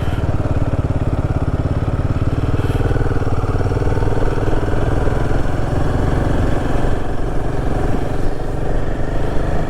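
Royal Enfield Himalayan 450's single-cylinder engine running steadily as the motorcycle is ridden uphill.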